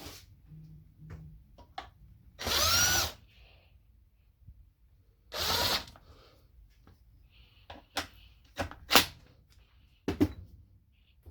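Power drill running in two short bursts a few seconds apart, its pitch bending as the motor speeds up and slows, followed by several sharp clicks and taps.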